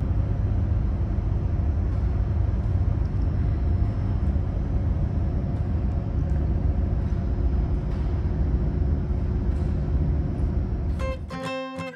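Steady low rumble of a moving vehicle, starting abruptly. Guitar music comes in near the end.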